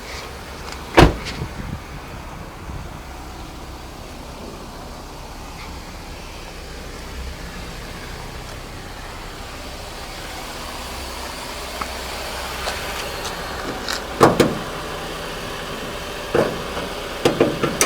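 A loud single thump about a second in, like a car door shutting, then a low steady rumble, and a few more clunks near the end as the Honda Civic coupe's hood is released and raised.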